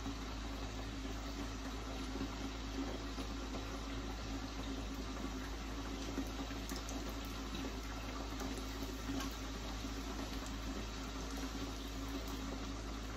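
Corn tortilla frying in hot oil in a skillet: a steady sizzle with scattered faint crackles.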